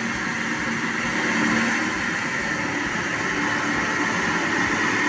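Truck engine running steadily under a constant hiss, with faint low engine tones that come and go.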